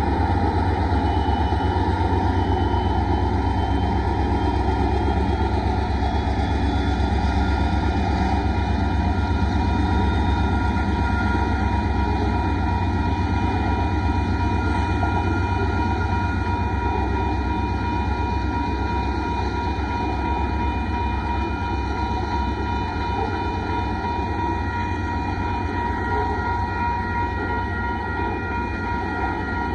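Loaded freight train rolling past at a grade crossing: the diesel locomotives pass first, then a long string of loaded rock hopper cars, with a steady deep rumble of wheels on rail. A few thin, steady high tones sound over it throughout.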